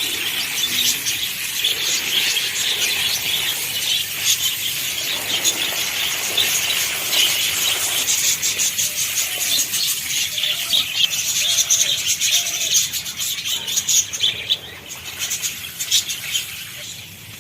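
A flock of many small birds chirping and twittering at once, a dense continuous chatter of short high calls.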